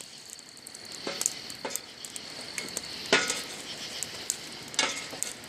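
Campfire crackling while a long-handled shovel is pushed through the burning wood and coals. Four louder strokes of the shovel stand out, the loudest about three seconds in.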